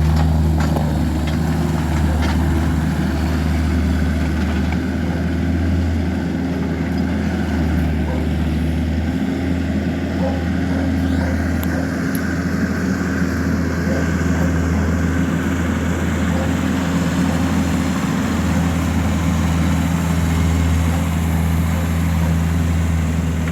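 A machine or engine running steadily with a loud, low, even drone that holds without a break.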